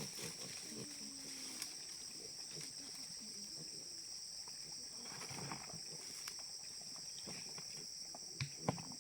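Insects keep up a steady, high-pitched drone, with scattered faint low knocks and rustles beneath and two sharp clicks near the end.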